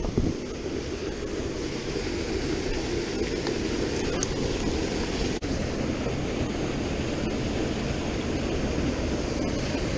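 Steady rushing of river water from a small waterfall, a dense even noise heaviest in the low end.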